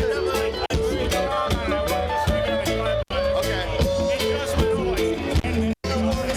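Roots reggae band playing live, with a steady bass line, regular drum strokes and sustained pitched parts over them. The sound cuts out for an instant about three times.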